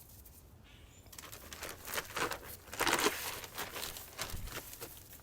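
Plastic bag crinkling and rustling in irregular bursts as it is handled, loudest about two to three seconds in.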